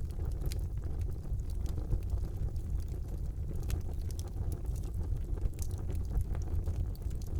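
Wood fire burning in a fireplace: a steady low rumble of the flames with scattered small crackles and pops throughout.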